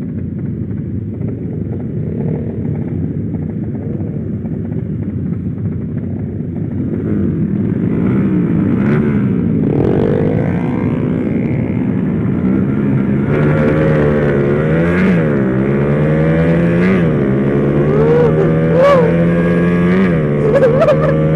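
Motorcycle engine running under way, its revs rising and falling, then holding steadier in the second half with several quick rev dips and blips.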